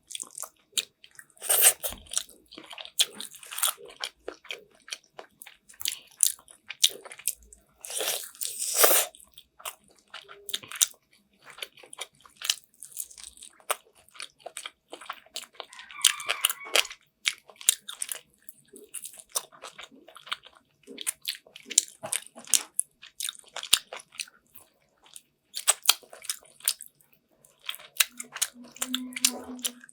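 Close-miked eating of chicken afritada: biting and chewing, with many sharp crunchy clicks and smacks and a few longer crunching stretches. A brief low hum near the end.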